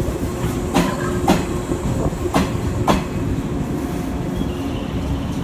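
381 series electric train pulling out slowly, with a steady running hum. Its wheels clack over rail joints in pairs, two double clacks about a second and a half apart.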